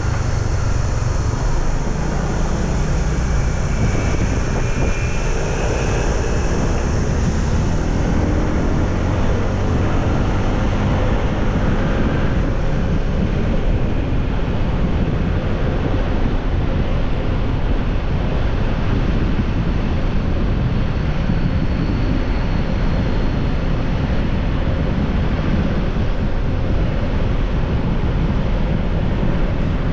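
Steady rush of wind over the microphone of a moving motorbike, with the engine and road noise underneath.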